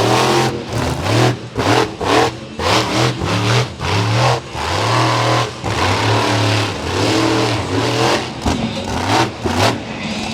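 Monster truck engine revving hard in repeated throttle bursts, rising and dropping in pitch several times a second during a freestyle run.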